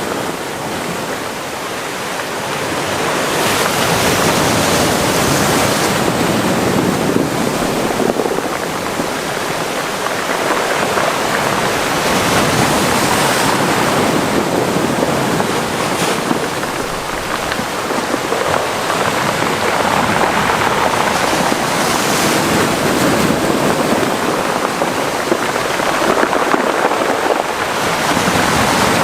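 Mediterranean sea waves washing into a small cove: a continuous rush of surf that swells and eases without a break.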